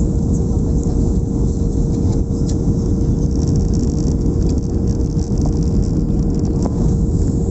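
Airliner cabin noise in flight: the steady roar of the jet engines and airflow, with a constant hum running through it.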